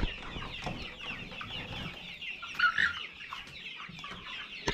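A flock of young chickens clucking and cheeping, many short calls overlapping, with one louder call a little past the middle.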